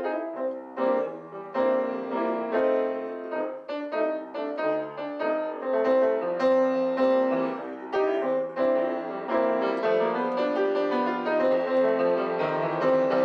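Piano playing a blues in C at a moderate, comfortable tempo: a steady, unbroken stream of notes and chords.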